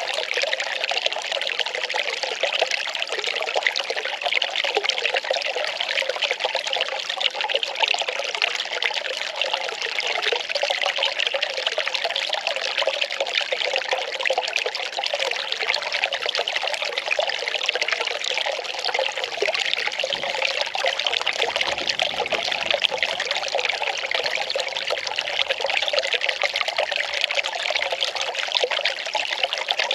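Well water pouring and trickling steadily, without a break.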